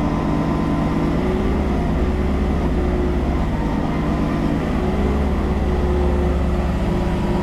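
Engine running steadily under load. A deeper low drone joins about a second in and falls away near the end.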